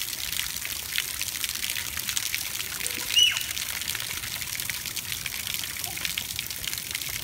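Steady rain: an even hiss with many small drop ticks, and one brief high squeak about three seconds in.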